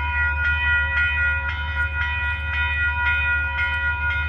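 Grade-crossing warning bell ringing about twice a second over a steady low rumble, signalling that a train is approaching the crossing.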